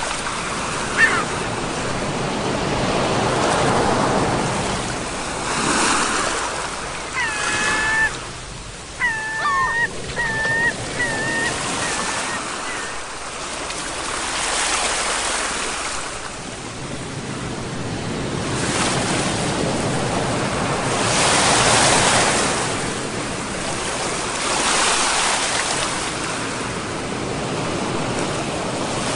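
Sea waves breaking and washing on the shore, swelling and ebbing every few seconds. A bird calls a handful of times about a quarter of the way in, the calls getting shorter.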